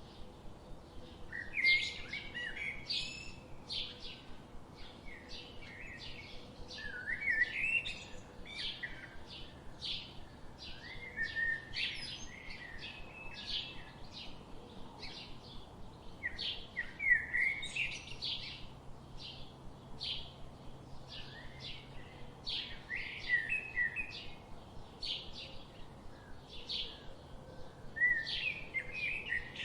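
Several birds chirping and singing in a forest, with short calls and trills following one another several times a second.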